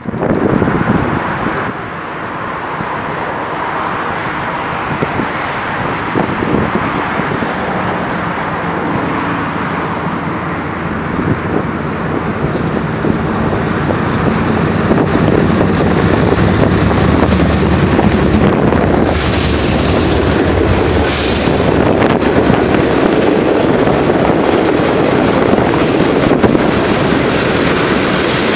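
A CSX freight train led by two GE Evolution-series (Gevo) diesel locomotives approaches and passes close beneath under power, its engines running with a steady low hum. About two-thirds of the way through a burst of loud hiss comes as the locomotives go by, then freight cars roll past with wheel noise. Strong wind buffets the microphone throughout.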